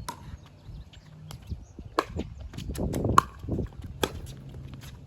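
Pickleball paddles striking a plastic pickleball in a rally: four sharp pocks one to two seconds apart, with a rougher rustling noise around the middle.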